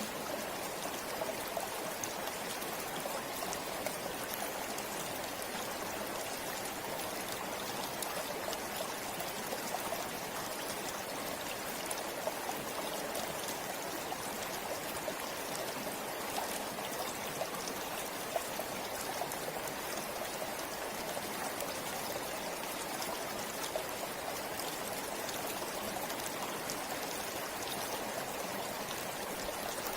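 River or stream water flowing over rocks, a steady rushing with small splashes and trickles scattered through it.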